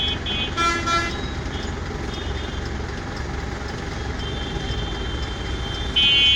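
Road traffic with engines running and repeated vehicle horns: short honks at the start and about a second in, then a loud horn blast near the end.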